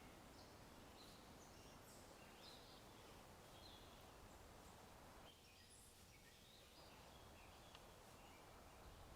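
Faint birdsong: scattered short high chirps from several birds over a steady low ambient hum.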